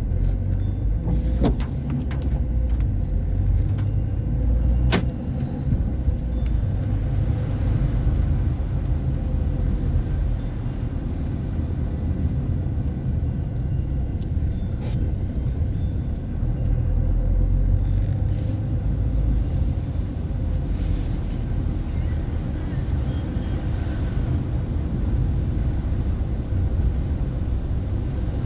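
Car driving along: a steady low rumble of engine and road noise, with a couple of sharp clicks in the first few seconds.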